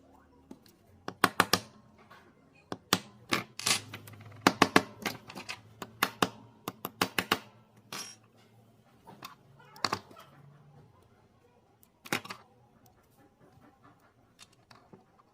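Irregular sharp clicks and clatter of small hard parts and tools being handled, in quick clusters and then a few single knocks near the end.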